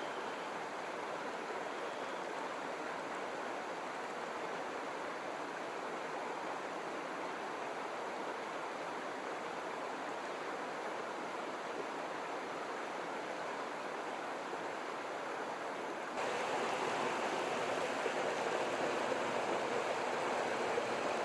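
Mountain river water rushing steadily over rapids, a constant even rush. About sixteen seconds in it suddenly becomes louder and fuller.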